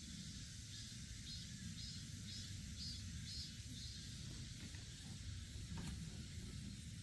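A short high chirp repeating about twice a second, with a steady low rumble underneath.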